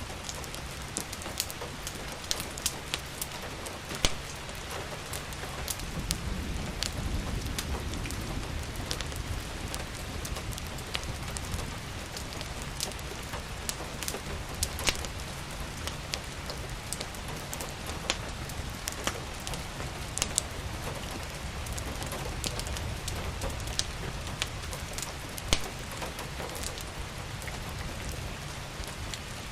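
Steady rain falling, mixed with frequent sharp crackles and pops from a wood fire. A low rumble swells briefly about six to nine seconds in.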